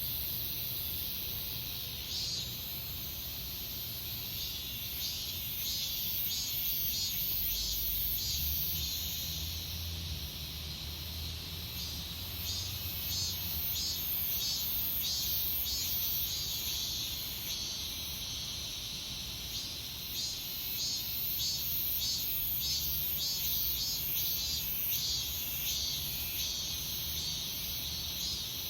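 Cicadas singing in chorus: a steady high-pitched buzz, with a pulsing call about twice a second running through most of it.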